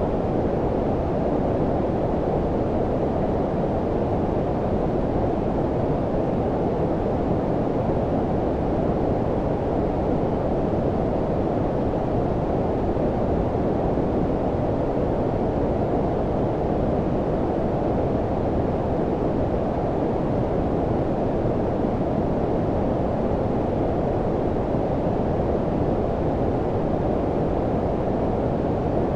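Steady low-frequency noise, deep and rumbling, with little above the low midrange: a continuous brown-noise-like hiss with no changes.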